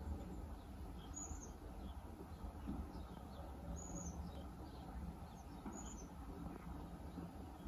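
Faint birds chirping over a low, steady background rumble, with three clearer high chirps about two seconds apart and softer chirps in between.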